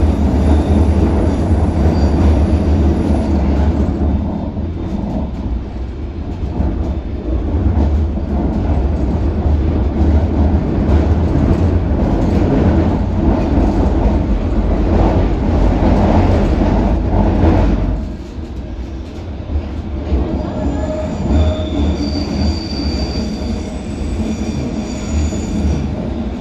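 District line Underground train running through a sharp left-hand curve, with a loud low rumble of wheels on rail that drops about two-thirds through. Near the end, high steady squeal tones come in from the wheels grinding on the curve: the bizarre noises of the very fast left turn.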